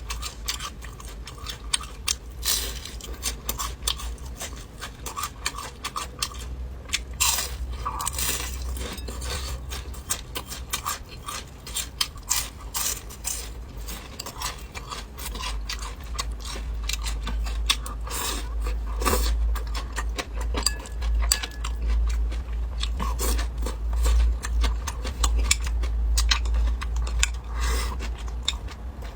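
Close-up crunching and chewing of fried small yellow croaker: many crisp bites and crackles in quick, uneven succession over a steady low hum.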